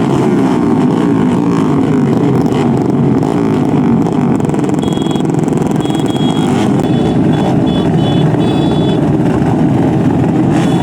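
Racing motorcycle engines running loudly and continuously.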